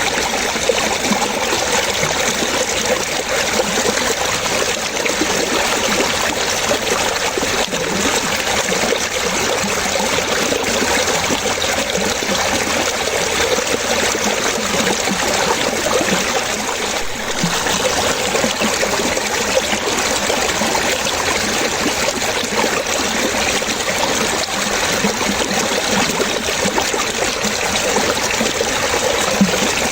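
Running water splashing and trickling steadily, like a small stream or cascade.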